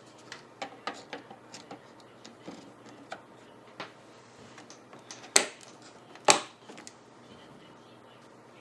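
Light plastic clicks and taps of DDR5 memory sticks being handled and seated into motherboard slots, with two sharper clicks about five and a half and six and a half seconds in.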